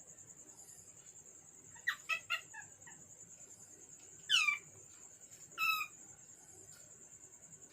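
Cockatiel calling: a quick run of short chirps, then a single downward-sliding whistle, then one short whistle, with gaps between. A faint steady high-pitched whine runs underneath.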